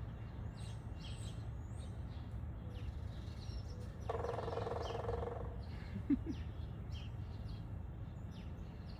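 Small birds chirping in short high notes throughout, over a steady low background rumble. About four seconds in, a longer pitched call sounds for about a second and a half.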